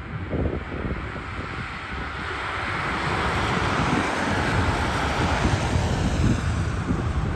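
Jet airliner engines rushing louder as the aircraft approaches and passes, with wind buffeting the microphone.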